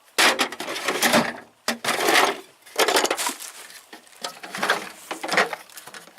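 Loose hand tools, screwdrivers among them, clattering and rattling in a tool box drawer as they are shuffled through by hand, in a run of irregular bursts.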